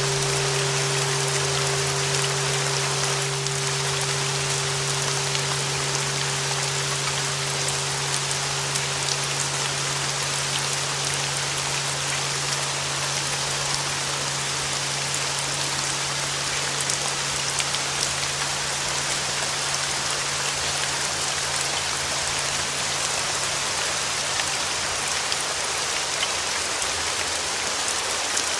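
Steady rain noise with a sustained 396 Hz flat-bell tone and a lower hum beneath it, both slowly fading away: the upper tone is gone about halfway through and the lower one near the end.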